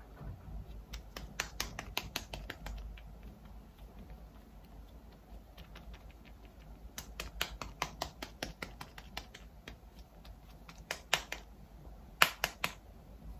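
Quick, light tapping and clicking from applying BB cream, in four bursts of rapid taps. The last burst, near the end, is the loudest.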